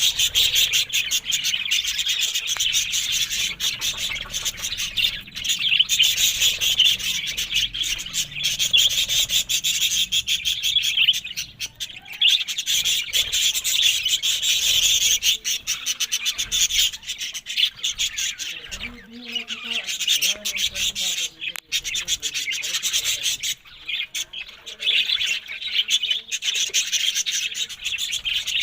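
Budgerigars chattering and warbling: a dense, continuous mix of fast chirps and clicks.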